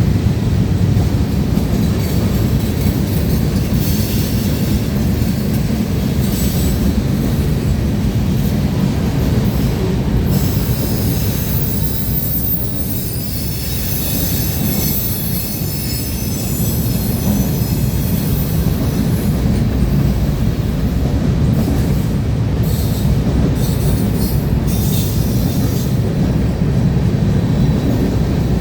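Freight train cars rolling past: a steady rumble and clatter of steel wheels on the rails with scattered clanks, and a high-pitched wheel squeal for several seconds about halfway through.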